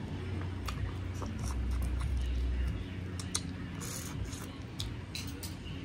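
A person eating shrimp: chewing and mouth sounds, a scatter of small wet clicks and smacks. A low rumble swells about a second and a half in and lasts about a second.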